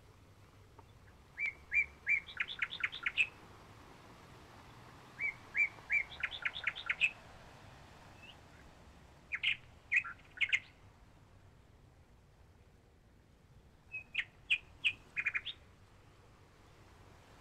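A bird chirping in four short phrases of quick high notes, a few seconds apart, each phrase a few separate chirps running into a rapid string of notes.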